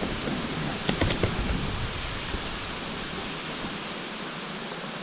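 Waterfall and river running as a steady rushing hiss, with a low rumble underneath that drops away about three seconds in.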